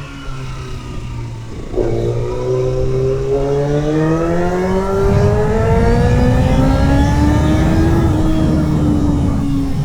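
2008 Kawasaki ZX-6R's inline-four engine through a GPR aftermarket exhaust. The revs drop off the throttle, then about two seconds in the throttle opens and the engine pulls with a steadily rising pitch, louder from about halfway through, before easing a little near the end.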